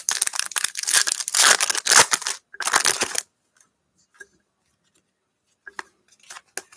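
A foil trading-card pack wrapper being torn open and crinkled for about three seconds, followed by faint clicks and slides of cards being handled.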